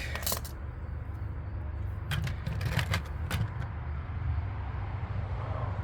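Small sharp clicks from handling heat-shrink butt connectors and a crimping tool on wiring, a few scattered through the stretch, over a steady low rumble.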